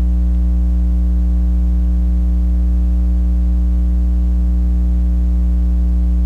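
Steady electrical mains hum, a low buzz with a stack of overtones, holding level without change.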